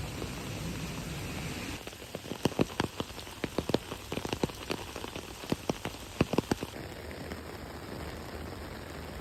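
Heavy rainstorm: a steady hiss of rain, with big drops striking a surface close by in a quick, irregular patter for about five seconds in the middle.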